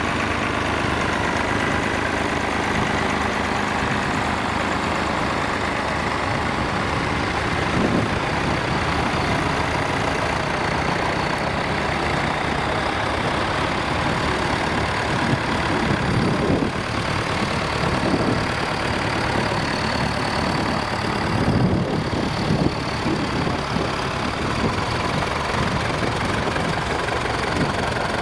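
Nuffield tractor engines running together at low revs as the tractors are driven in, with a few brief louder surges along the way.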